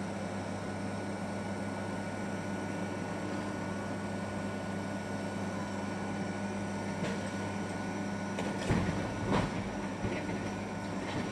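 Car-body crusher running with a steady low machine hum, while the stripped vehicle body is crushed with a few metal clanks and scrapes, loudest about nine seconds in.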